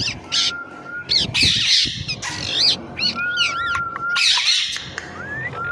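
Parrot squawking: two loud, harsh squawks, about a second and a half in and again near four seconds, amid rapid chirping and whistled calls.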